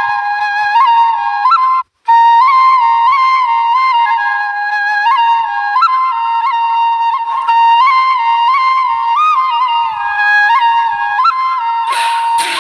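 Background music: a solo flute melody with quick ornamental flicks between held notes, cutting out briefly about two seconds in.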